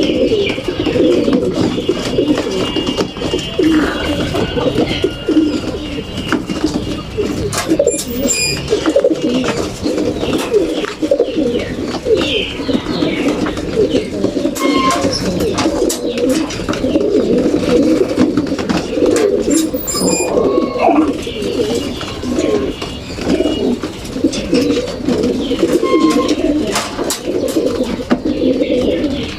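A flock of racing pigeons cooing continuously together, a dense overlapping murmur of coos, with scattered clicks and knocks.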